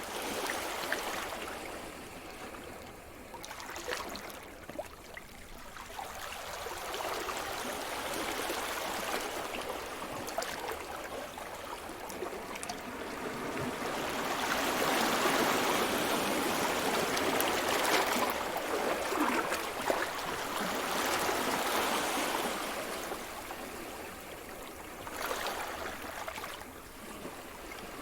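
Sea surf: waves washing onto the shore, the rushing noise swelling and ebbing in slow surges, the biggest one in the middle.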